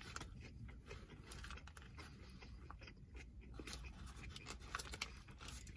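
Faint chewing of a mouthful of burger: soft, scattered mouth clicks and crackles over a low, steady hum.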